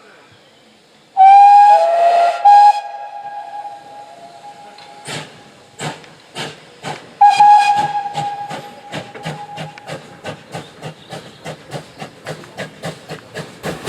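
Ex-GWR steam tank locomotive gives a long whistle and a short second toot, then starts away: exhaust beats begin about five seconds in, slow at first and quickening steadily, with another long whistle partway through.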